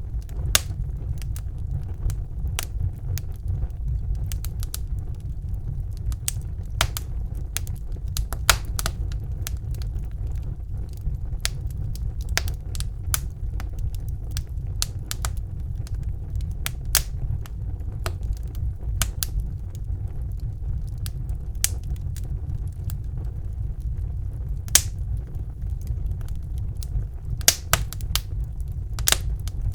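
Wood fire of burning logs crackling, with irregular sharp pops and snaps over a steady low rumble.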